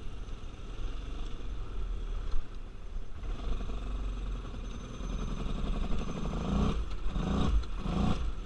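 Carbureted ATV engine running at low speed, then revved in three quick throttle blips near the end. A low rumble of wind on the microphone runs underneath.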